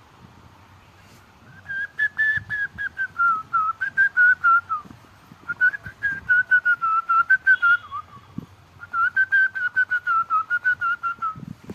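Whistling: three runs of quick, repeated whistled notes, the pitch wavering and sliding slightly down within each run.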